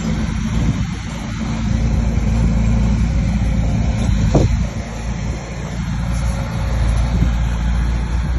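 Bulldozer's heavy diesel engine running steadily under load while pushing soil, a deep continuous rumble. There is a short knock about four seconds in.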